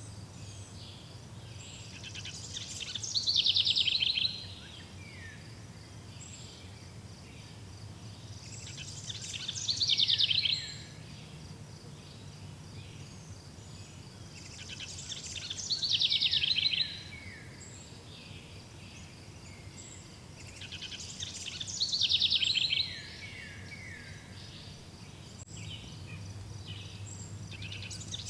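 A songbird sings the same short song about every six seconds, five times. Each song is a two-second run of rapid high notes that drops in pitch at the end. Beneath it runs a steady high insect trill, with a low hum.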